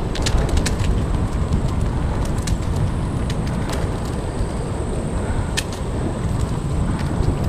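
Wind buffeting the microphone during a bicycle ride: a steady low rumble with scattered sharp clicks.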